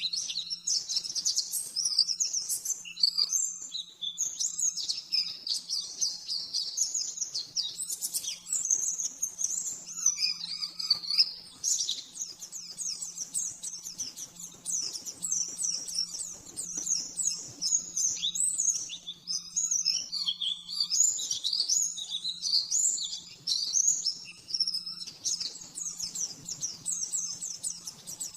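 Pleci (white-eye) singing a continuous stream of fast, high chirping trills in quick-fire runs, the 'nembak' song style. A faint steady low hum sits underneath.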